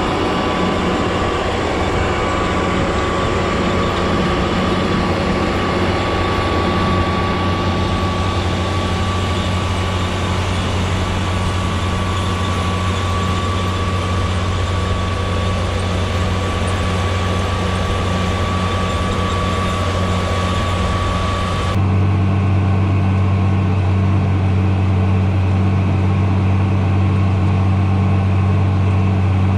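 Tractor engine running steadily. About 22 seconds in the sound cuts abruptly to a different, deeper and steadier engine hum.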